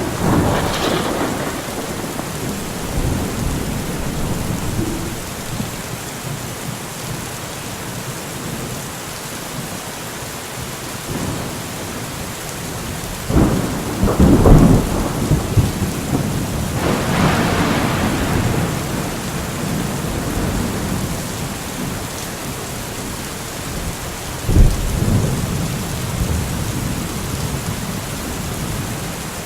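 Steady rain falling during a thunderstorm, with thunder rumbling several times: once at the start, loudest about halfway through with a long rumble after it, and a short sharp clap later on.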